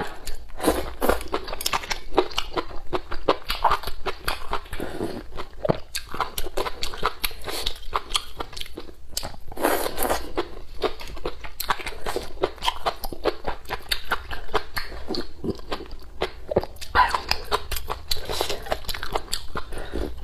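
Close-miked eating sounds: crisp, tender deer antler mushrooms chewed with a dense run of wet clicks and crunches, and soup slurped from the bowl near the end.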